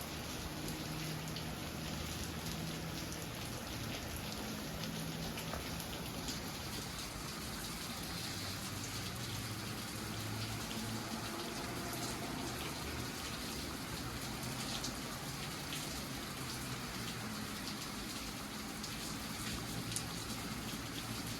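Heavy rain pouring down steadily, a dense patter of drops hitting surfaces.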